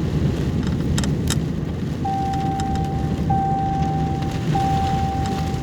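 Low steady rumble of a vehicle running in the rain, heard from inside, with a few sharp ticks of drops hitting the body. From about two seconds in, a vehicle's electronic warning chime sounds as a string of held beeps about a second long.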